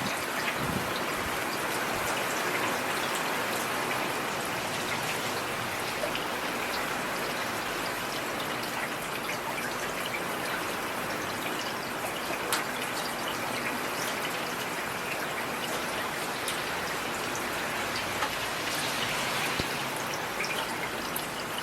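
Heavy rain falling steadily, a dense even hiss with scattered louder drops ticking on a surface.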